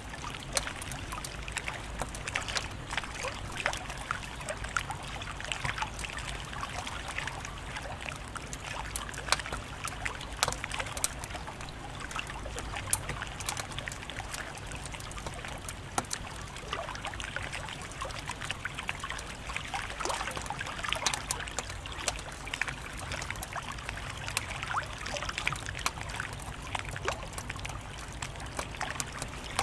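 Wood fire crackling steadily, with frequent small pops and snaps over a soft hiss of burning.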